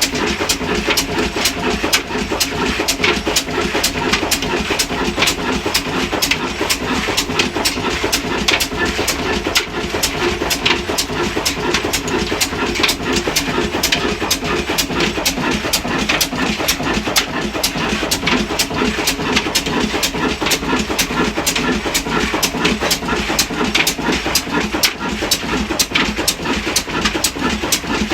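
Large-flywheel indigenous diesel engine running steadily, its firing strokes making an even, rapid knocking beat.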